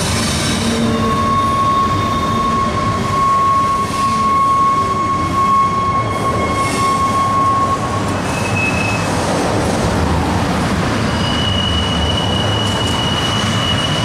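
Intermodal freight train's container cars rolling across a steel railroad bridge, a continuous rumble of wheels on rail. High steady wheel squeals come and go over it: one long squeal for most of the first half, a brief higher one, then another higher squeal near the end.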